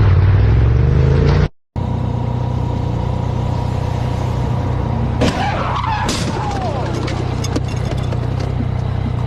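Vehicle engine running, rising in pitch for the first second and a half. After an abrupt cut, another engine drones steadily.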